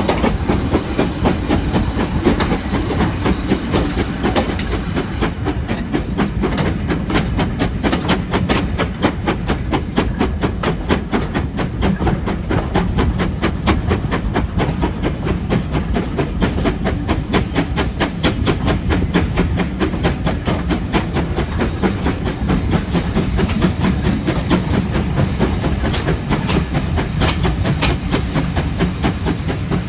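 Steam-hauled train on the move behind GWR 0-6-2 tank locomotive 5619: a hiss of steam for about the first five seconds, then a fast, even beat of the running train.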